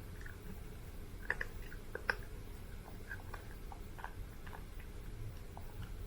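Kinkalow kitten eating: small, irregular chewing clicks, with two sharper clicks about a second and two seconds in.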